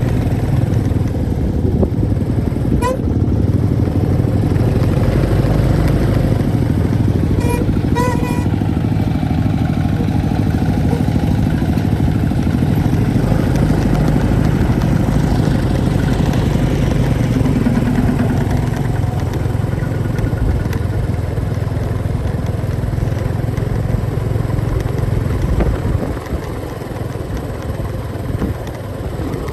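Motorcycle engine running steadily while riding along, with short beeps about three seconds in and twice more around eight seconds in.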